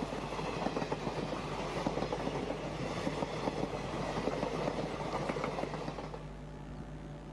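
Indian Railways passenger train headed by two diesel locomotives running close past, with a dense, rapid clatter of wheels over rail joints. About six seconds in, it drops to a quieter, steady low hum.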